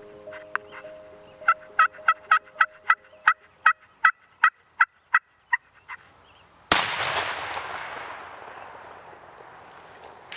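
A series of about fourteen short turkey yelps, slowing toward the end. Then a single sudden shotgun blast that echoes and dies away over several seconds.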